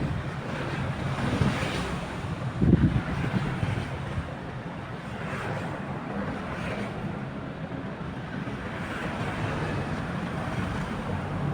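Tugboat diesel engine droning steadily, with wind buffeting the microphone and a louder gust about three seconds in.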